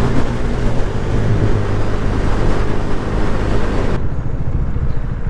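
Motorcycle engine running steadily while riding, with wind rushing over the helmet microphone; the wind hiss drops away abruptly about four seconds in while the engine carries on.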